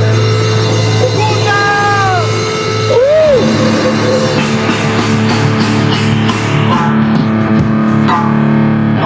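Rock band playing live with no vocals: electric guitar notes bending up and down over held bass notes, then cymbals struck in a steady beat from about the middle on.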